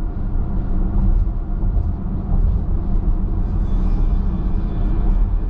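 Steady low road and tyre rumble of a car travelling on the highway, heard from inside the cabin.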